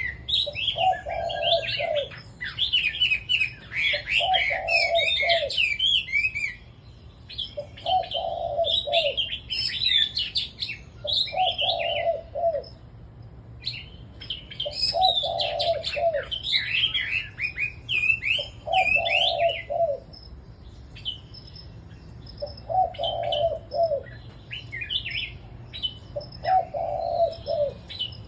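Caged red-whiskered bulbuls singing in quick, overlapping, high phrases, with short pauses and sparser song in the second half. Beneath them a dove coos, one low phrase about every three and a half to four seconds.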